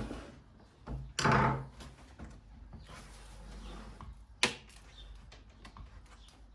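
Knocks and a scraping bump from a board being handled against a wall: a loud rough scrape about a second in, then a single sharp knock a few seconds later.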